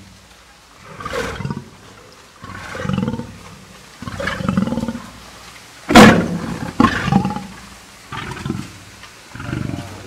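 Lion growling in a series of short, separate bursts, with a loud, sudden one about six seconds in.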